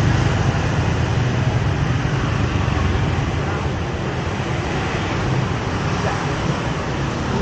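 Steady city street traffic noise: a continuous wash of passing motor vehicles.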